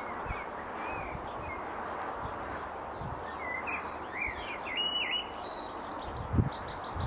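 Small songbirds chirping outdoors over a steady background hiss, with a run of quick twittering calls from about three to five seconds in. A soft low thump comes near the end.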